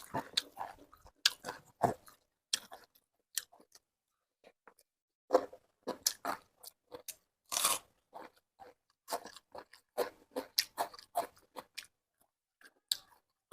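A person chewing food close to the microphone, with many short, irregular crunches.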